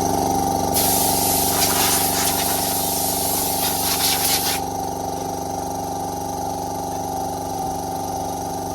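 Electric air compressor running steadily, with a blast of compressed air from a blow gun hissing for about four seconds, starting about a second in.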